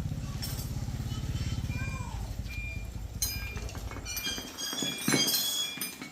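Motorcycle engine idling with an even, rapid pulse, fading away between about two and four seconds in; light metallic clinks follow near the end.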